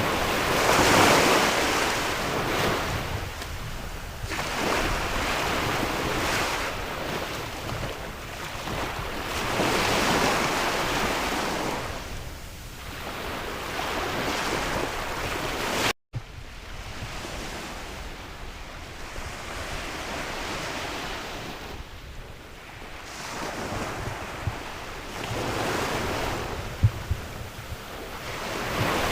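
Sea waves breaking and washing in, swelling and fading every four to five seconds, with sea wind blowing over the microphone. The sound cuts out for a split second about halfway through.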